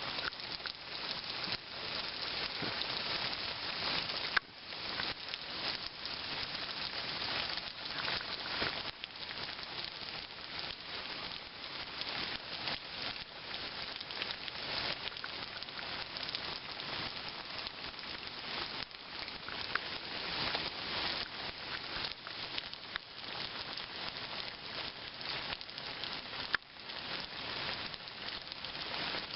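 Steady rain falling, a dense crackling patter. Two brief knocks come about four seconds in and near the end.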